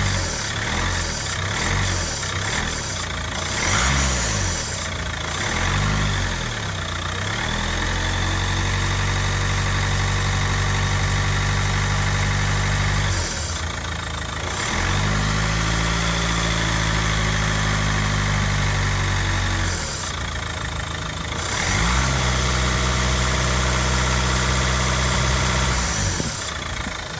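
2010 Ford Mondeo 2.0 TDCi four-cylinder diesel engine revved in the bay: a few quick blips, then revs held up for several seconds and let fall, three times, with a hissing the owner hears on overrun, lift-off and acceleration but not under steady load, over the whirring of the auxiliary belts.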